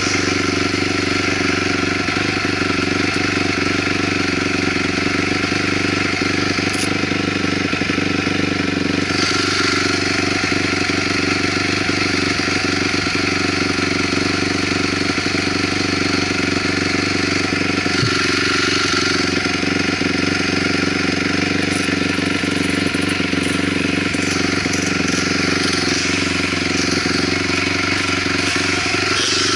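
2008 Honda CRF250R dirt bike's single-cylinder four-stroke engine running under way, holding a fairly steady pitch, heard from the rider's helmet camera.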